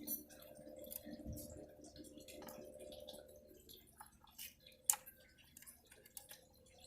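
Faint scattered ticks and small clicks of hands working wires and solder while soldering, over a faint steady hum, with one sharp click about five seconds in.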